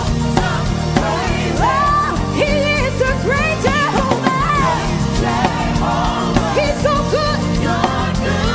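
Gospel worship music: a voice singing a sliding, ornamented melody over keyboard chords, bass and drums.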